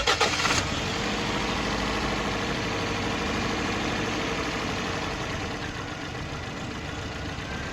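Toyota Corolla GLI engine catching right after being started, the first half second rough, then idling steadily. The mechanic judges the engine okay as it runs.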